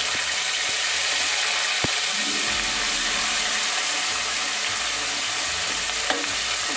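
Ginger-garlic paste sizzling steadily in hot oil in an aluminium pot as a ladle stirs it, with a single sharp knock on the pot about two seconds in.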